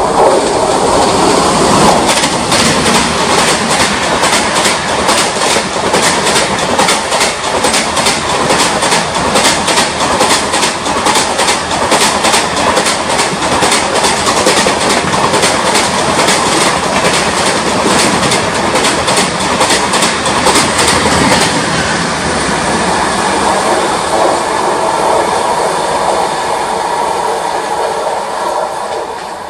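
An Indian Railways express hauled by a WAP-7 electric locomotive passing at speed: the locomotive and a long rake of coaches rush by with a rapid clickety-clack of wheels over the rail joints. About 21 seconds in the clatter stops, and the running noise fades near the end as the train pulls away.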